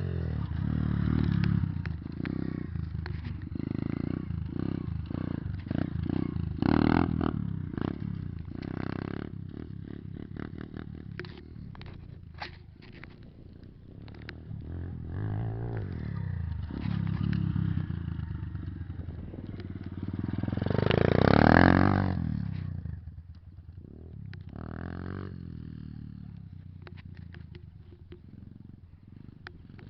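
Pit bike engine running and revving in repeated bursts, with one loud rev that rises and falls about two-thirds of the way through.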